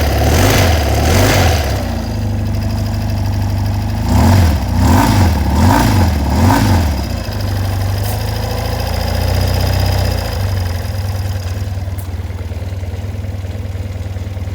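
1988 BMW R100 GS Paris-Dakar's air-cooled flat-twin boxer engine running cold. The throttle is blipped gently three times in the first two seconds and four more times about four seconds in, then the engine settles to a steady idle.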